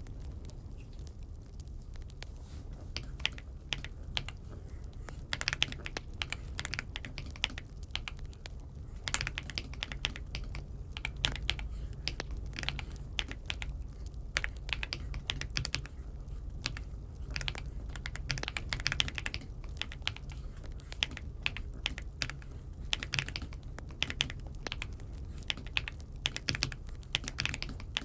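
Typing on an Aula F75 (독거미 F75) mechanical keyboard: irregular runs of key clicks broken by short pauses, over a steady low hum.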